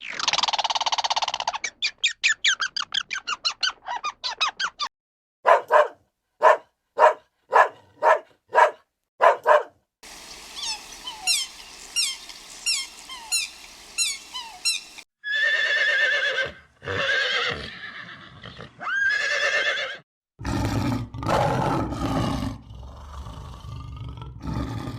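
A string of different animal calls cut one after another. First a fast, high pulsing trill, then seven evenly spaced calls, then several seconds of rapid chirping, then louder pitched calls, and finally a louder, rougher stretch.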